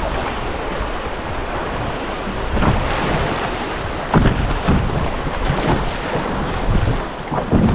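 Canoe running a small wave train on a fast, high-water river: rushing water with sharp splashes against the canoe several times from about two and a half seconds in, over wind buffeting the microphone.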